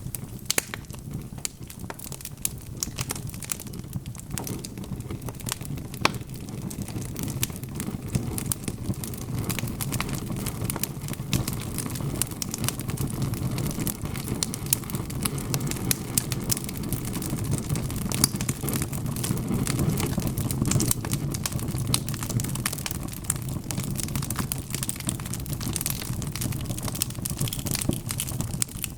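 Wood fire burning in a fireplace: steady irregular crackling and popping over a low, even rumble of the flames.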